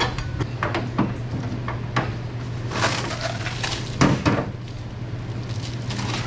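Hand tools and metal parts clinking, knocking and scraping during engine-bay disassembly, with a harder knock about four seconds in, over a steady low hum.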